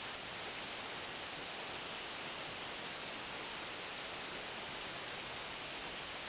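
Steady rain falling: a dense, even hiss with no single drops standing out.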